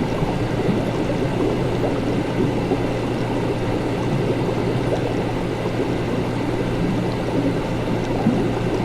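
Laboratory ambience: a steady low equipment hum under a continuous, busy sound of bubbling, flowing liquid.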